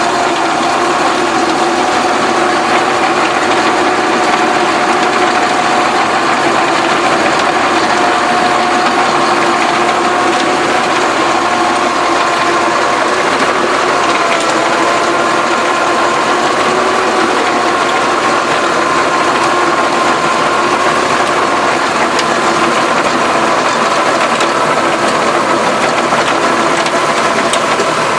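Massey Ferguson tractor's diesel engine running steadily at a near-constant pitch while working the soil, with a mechanical clatter over it.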